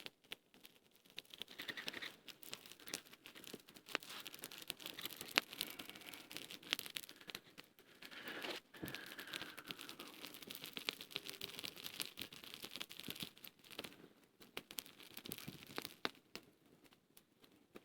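Small birch-bark and twig campfire crackling: a steady run of faint, irregular sharp pops and snaps over a soft hiss, with a faint falling whine about halfway through.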